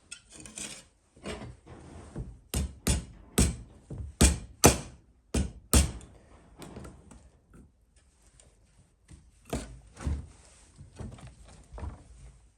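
Repeated sharp knocks on wood: a quick run of about eight strokes, roughly two a second, starting a couple of seconds in, then scattered lighter knocks.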